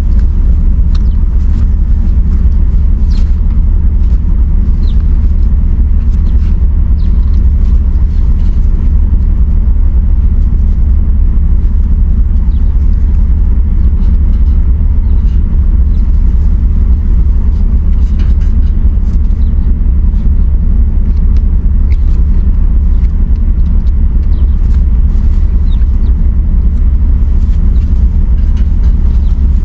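A steady loud low rumble, with faint scattered clicks and a few short high squeaks over it.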